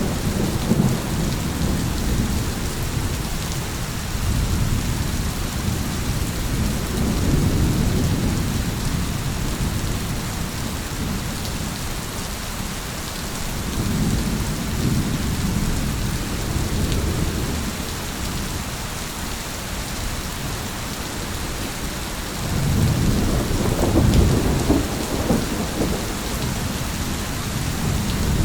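Steady heavy rain with rolling thunder rumbling several times, the strongest roll starting a little after two-thirds of the way through.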